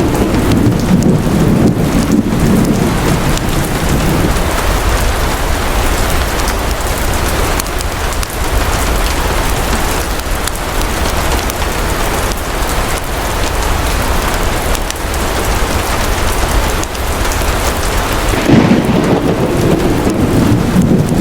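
Steady heavy rain with rolling thunder: a low rumble through the first four seconds or so, and another starting near the end.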